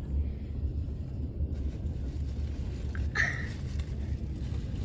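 Freight train rolling past slowly with a low, steady rumble, and a short higher sound about three seconds in.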